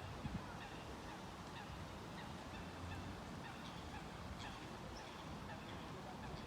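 A flock of birds calling faintly, many short calls overlapping, over a steady low background noise.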